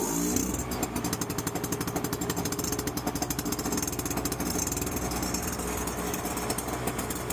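Ariens single-cylinder small engine settling down from higher revs at the start, then running steadily at idle with an even, rapid firing beat. It is now running after straight oil was drained from its flooded carburetor.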